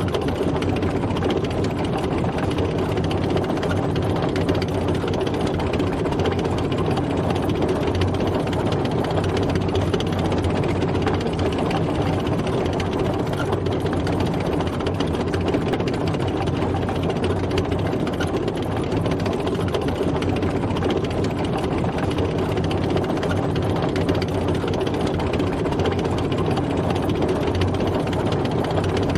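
Tank driving, its engine running steadily with the dense clatter of its tracks.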